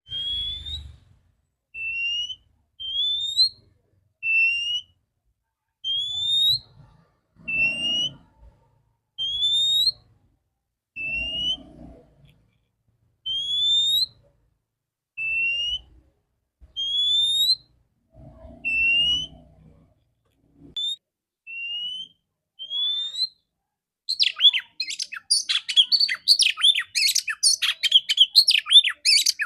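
Oriental magpie-robin, the female's clear whistled call: single rising whistles, about one every second and a half, alternating slightly lower and higher notes. About 24 seconds in, it gives way to a fast, varied, continuous song.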